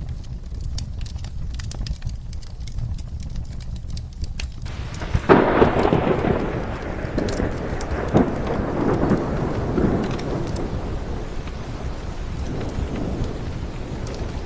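Steady rain with a crackling fire's scattered pops; about five seconds in a thunderclap breaks suddenly and rumbles away over several seconds.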